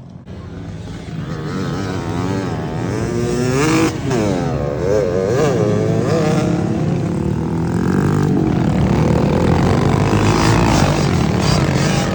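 Several small pit bike engines revving, their pitches rising and falling and crossing one another as the bikes accelerate and shift. The sound builds over the first couple of seconds and then stays loud.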